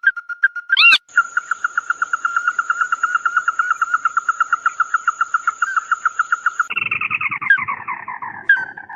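Call of the bird known in Vietnam as chim mắt đỏ ("red-eyed bird"): a fast, steady string of short repeated notes, about ten a second at one pitch, with a thin high steady tone alongside. Near the end it changes to a lower, falling chattering series.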